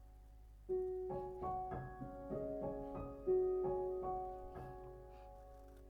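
Soft solo piano background music: a slow phrase of single notes and chords begins about a second in and rings out near the end.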